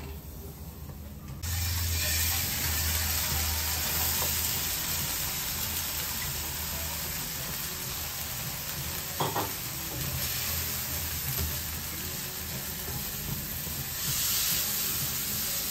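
Chopped onion frying in hot oil in a non-stick wok and being stirred with a silicone spatula: a steady sizzle that starts suddenly about a second and a half in, with a brief knock about nine seconds in and a brighter hiss near the end.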